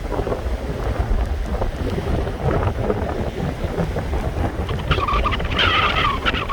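Nor'easter wind gusts buffeting the microphone in a loud, continuous rumble. From about five seconds in a higher, wavering sound joins it.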